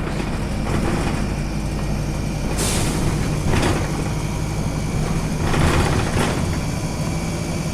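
Wright Cadet bus on a DAF SB120 chassis running with a steady diesel engine hum, broken by short hissing bursts about two and a half seconds in, again a second later, and a longer one around five and a half seconds in.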